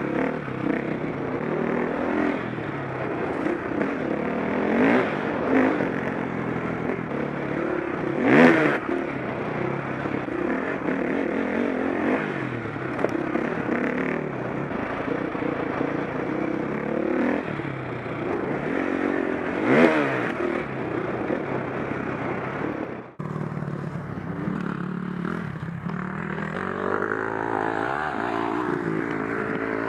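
KTM 525 SX four-stroke single-cylinder motocross engine revving up and down as it is ridden hard, with two loud surges about 8 and 20 seconds in and a brief sudden dip a little after 23 seconds.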